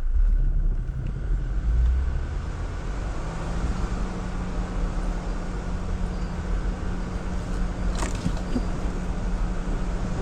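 Jeep Wrangler Rubicon driving on an off-road trail: a steady low engine and drivetrain rumble, with a steady hum joining in after a few seconds. A single sharp knock comes about eight seconds in.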